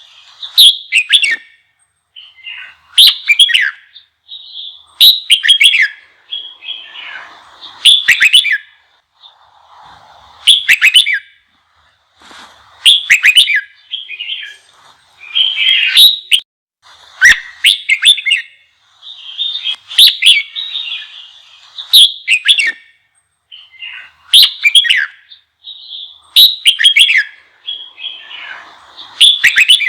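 Red-whiskered bulbul singing a fired-up, combative song: loud, short phrases repeated about every two seconds.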